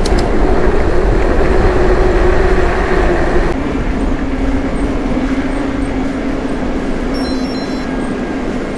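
Electric mountain bike riding along a path: a steady rumble of tyres and wind on the camera microphone, with a steady motor hum that drops to a lower pitch about three and a half seconds in.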